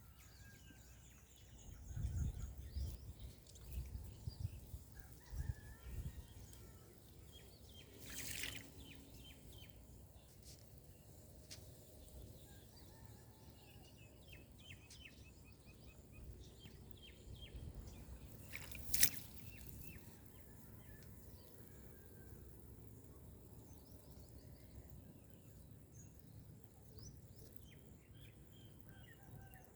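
Small birds chirping and twittering here and there over faint outdoor ambience. There are low rumbles in the first few seconds, and two brief sharp noises, one about eight seconds in and one near nineteen seconds.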